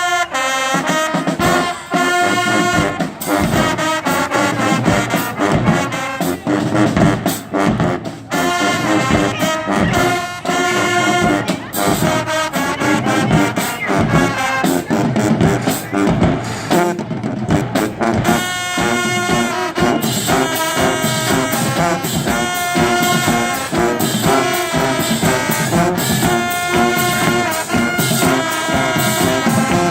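High school band playing, with brass (trombones and trumpets) carrying the tune over a steady beat.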